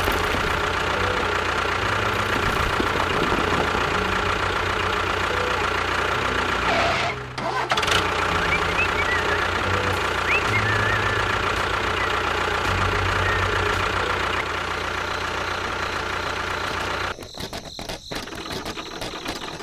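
Engine running steadily with an even low beat, briefly cut off about seven seconds in, then going on and turning weaker and choppier near the end.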